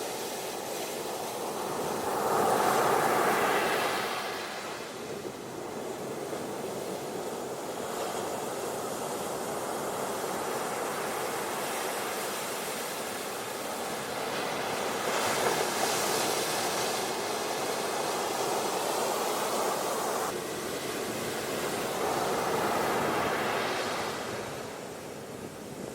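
Ocean waves washing onto a beach: a steady hiss of surf that swells louder three times, about two seconds in, around fifteen seconds in and near the end.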